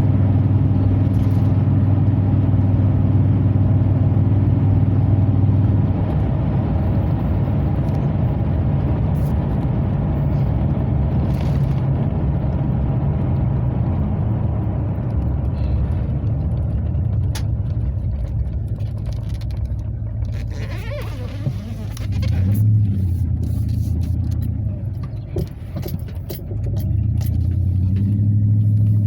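2003 Chevrolet Silverado 2500HD with a Flowmaster FlowFX exhaust, heard from inside the closed cab while driving. A steady low exhaust drone for about the first six seconds, then a lighter engine note, with two short swells in engine speed in the second half.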